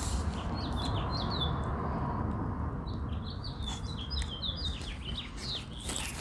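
Small birds chirping: quick runs of short, high, downward-sliding chirps, one run about a second in and another from about three to five seconds in, over a steady low rumble.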